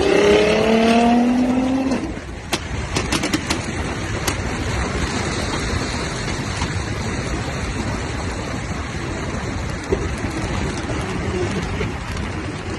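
Nissan GT-R's exhaust as the engine revs, its pitch rising for about two seconds, then a quick series of sharp pops and cracks as the revs drop. After that comes a steady rushing noise.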